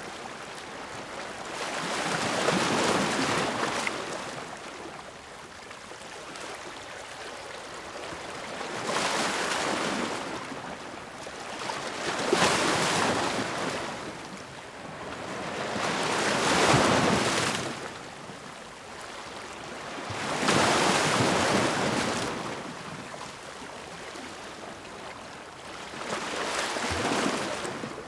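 Ocean waves crashing against rocks: six surges of surf, each swelling and ebbing over a couple of seconds, over a steady wash of water between them.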